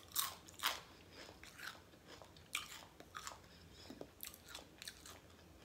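Close-up chewing with irregular crisp crunches and mouth smacks, a few a second at uneven intervals.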